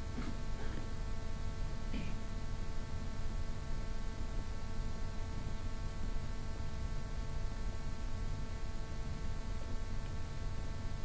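Steady electrical hum from the sound system over a low room rumble, with a couple of faint brief sounds near the start and about two seconds in.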